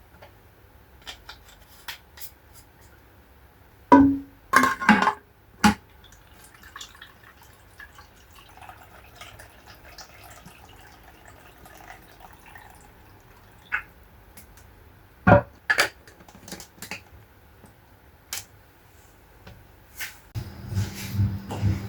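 Scattered light clicks and knocks, a few louder ones about four to six seconds in and again about fifteen seconds in, with a steady low hum setting in near the end.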